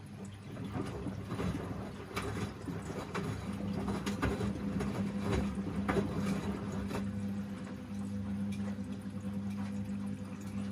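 Washing machine running mid-cycle: water sloshing and splashing in the turning drum over a steady motor hum, the splashing busiest in the first two-thirds.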